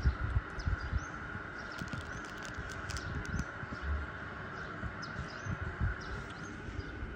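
Scattered short bird chirps over a steady high hum, with irregular low thumps from the handheld phone's microphone being moved.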